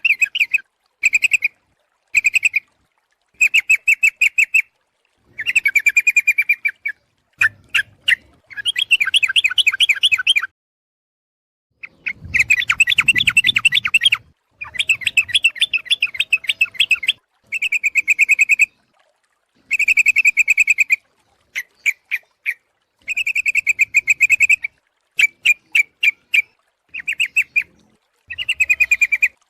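Yellow-vented bulbul (trucuk) calling, bursts of rapid bubbly chattering notes repeated over and over with short silent gaps between: a bird-luring call recording, given as a female calling a male.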